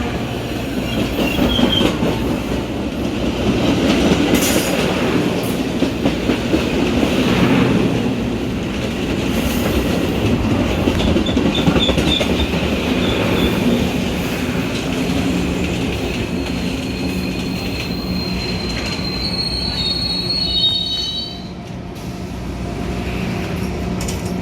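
Metra commuter train rolling on the rails: a steady rumble with wheel and rail noise. A high wheel squeal comes in twice, around the middle and again shortly before the end, after which the sound gets quieter.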